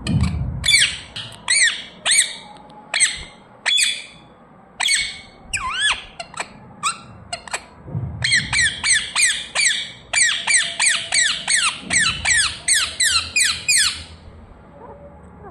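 Pet parrot giving a string of short, shrill squawking chirps, spaced out at first, then a quicker run of about two to three calls a second through the second half.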